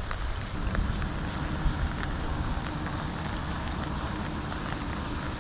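Light rain falling, with scattered raindrops ticking close by over a steady low rumble.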